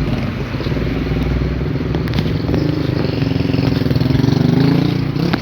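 A motor vehicle's engine running under way, its pitch shifting up and down as it changes speed.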